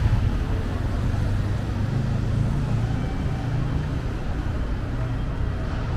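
Steady city street traffic: a low, even engine hum from nearby motor vehicles.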